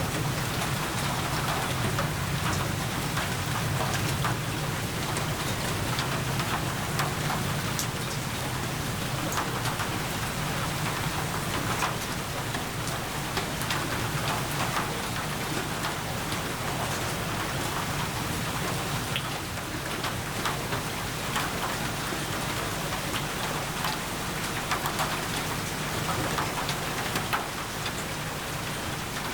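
Steady rain falling on a surface, a continuous hiss with many individual drop hits ticking through it.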